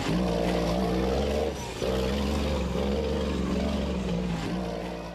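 Diesel engine of a Class 8 off-road racing truck running hard at speed. It drops off briefly about a second and a half in, then picks back up.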